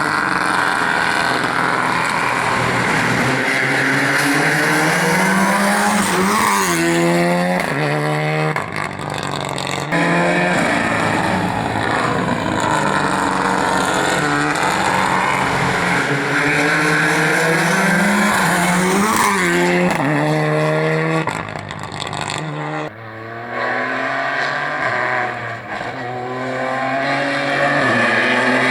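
Rally cars driven hard on a special stage, each engine climbing in pitch through a gear and dropping at the shift, over and over as the cars pass. The sound changes abruptly about ten seconds in and again near the end, cutting from one car to the next.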